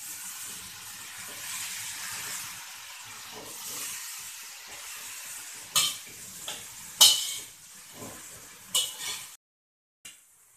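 Pounded cassava leaves sizzling in hot oil in a steel wok as they are stir-fried, with a metal spatula clinking sharply against the wok a few times in the second half. The sound cuts off suddenly near the end.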